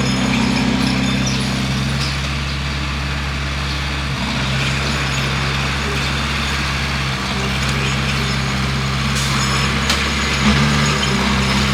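Bulldozer's diesel engine running steadily, its note dipping briefly a few times.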